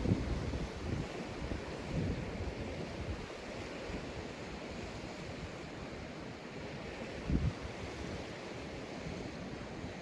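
Sea waves breaking and washing up a sandy beach in a steady surf hiss, with wind buffeting the microphone in low rumbles, one stronger gust about seven seconds in.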